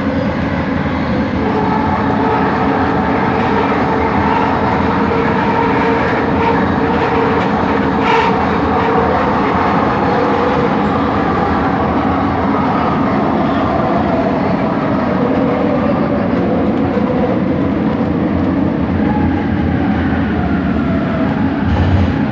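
Bombardier Innovia ART 200 metro train running, heard from inside the car: a steady running rumble with whining tones from its linear induction motor drive that drift slightly in pitch, the odd motor noise of this train. A single sharp click about eight seconds in.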